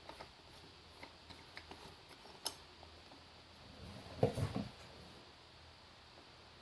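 Light metallic clicks and clinks of tools and parts being handled at the engine, with one sharp click about two and a half seconds in and a short run of duller knocks a little past four seconds.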